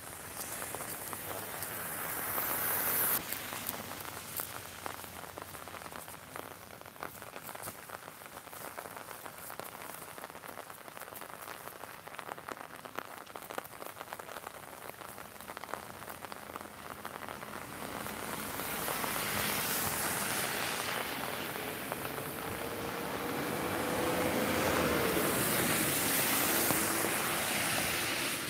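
Steady rain falling, with many small drop hits close by on an umbrella overhead. In the second half a vehicle passes on the wet road, its tyre hiss swelling and fading with a faint tone that rises and then falls.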